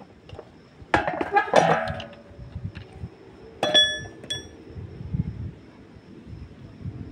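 Metal objects clinking and clattering, then a sharp strike on metal that rings with a clear high tone, followed by a second, lighter ringing knock.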